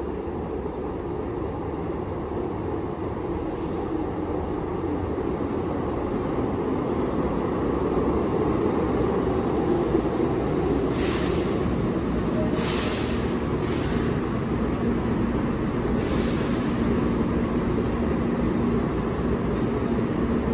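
Keihan 1000 series electric commuter train running into an underground platform, its running noise growing as it approaches. About halfway through, several short, high hissing and squealing bursts come as it brakes to a stop. A steady low hum follows as it stands.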